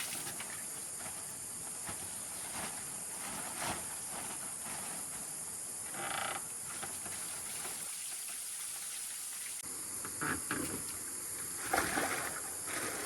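A steady high hiss, broken by a few short knocks, the loudest near the end.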